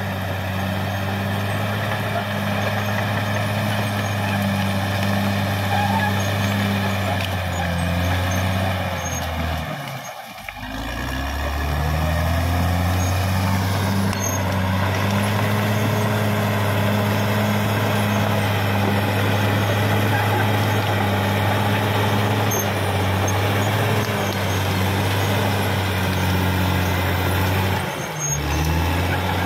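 CAT D6R XL bulldozer's diesel engine running steadily under work. About a third of the way in the engine note drops away briefly and then climbs back up, and it dips again briefly near the end.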